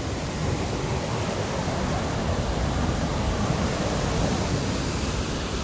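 Steady rushing of a flood-swollen mountain river, an even roar of fast water.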